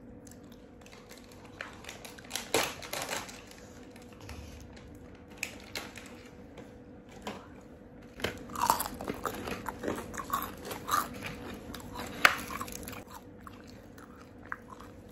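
Close-up biting and chewing of crispy fried chicken coated in gulai curry sauce: wet crunches and mouth clicks. They come in two spells, a couple of seconds in and again past the middle, with the sharpest crunch a few seconds before the end.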